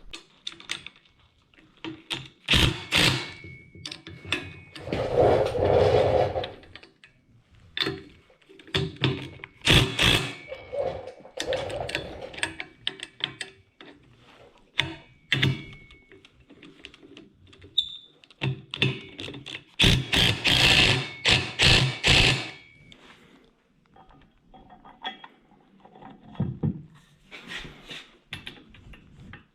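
Irregular knocks, clicks and scraping of tools and materials being handled on a workbench, with two longer stretches of rough rubbing or shuffling.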